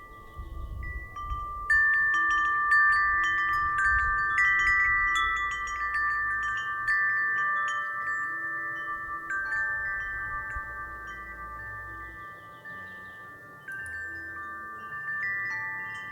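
Wind chime ringing in the wind: several clear tones overlapping and ringing on, with a burst of strikes about two seconds in and another near the end. A faint low wind rumble lies underneath.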